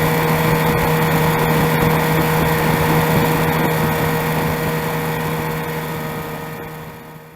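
A boat's motor running at a steady speed, with a constant droning pitch, fading away near the end.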